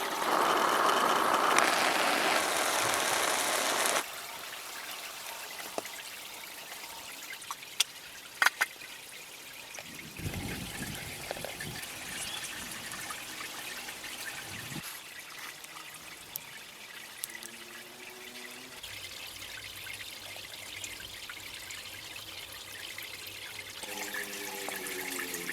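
Water pouring for about four seconds and stopping suddenly, then a quieter trickle with a few sharp clicks and knocks.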